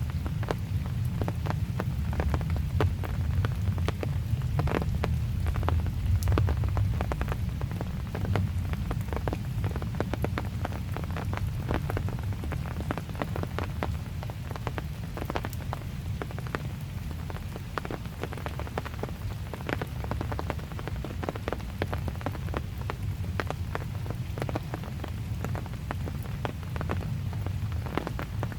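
Steady rain, with many separate drops striking close by over an even hiss of rainfall, and a low steady rumble underneath.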